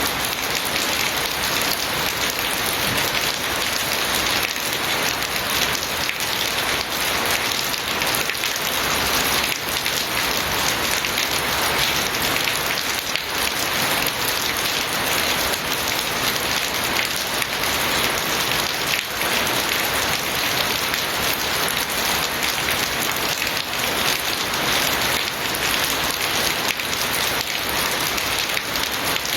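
Steady heavy rain falling and pattering on surfaces, an even dense hiss with many fine drop impacts.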